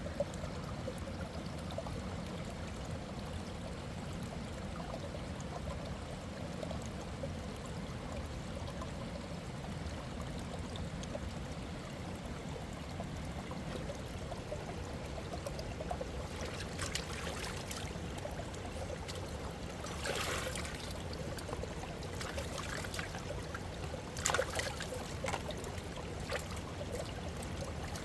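Mountain river water running steadily, with a few brief louder noises about two-thirds of the way through and again near the end.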